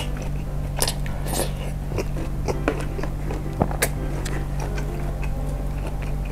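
Close-miked chewing of a firm, dense meatball (bakso) in chili sauce: irregular wet mouth smacks and clicks.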